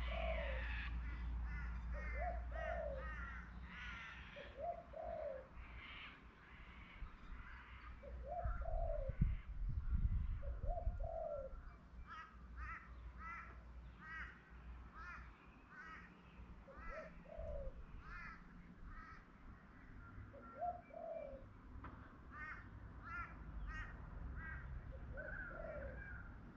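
A dove cooing over and over, a low call every couple of seconds, with other birds chirping in quick runs of higher notes. A low rumble swells for a couple of seconds about nine seconds in.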